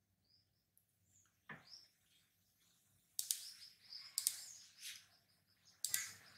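Faint bird chirps in short bursts, sparse at first and busier from about three seconds in.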